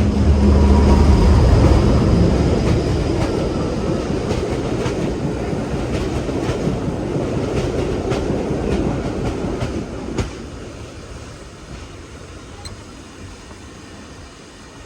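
A train passing close by: a heavy rumble at first, then wheels clicking over rail joints as the carriages go by, the sound dropping away after about ten seconds.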